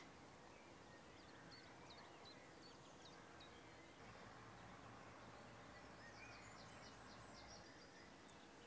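Near silence: faint outdoor ambience with scattered, faint bird chirps.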